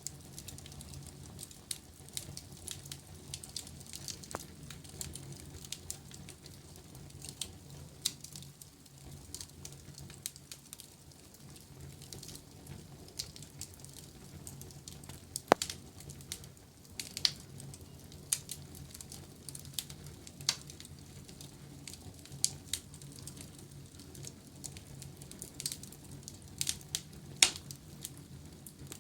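Fire in a fireplace crackling, with irregular sharp pops, two of them louder about halfway through and near the end. A steady low hum runs underneath.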